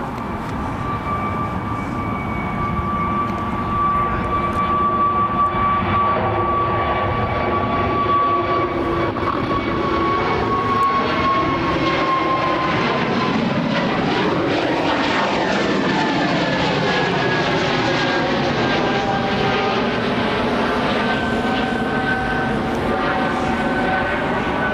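Jet airliner on final approach passing low overhead. Its engine whine grows louder over the first few seconds, then drops slightly in pitch as it goes over, with a sweeping, swirling quality at the closest point.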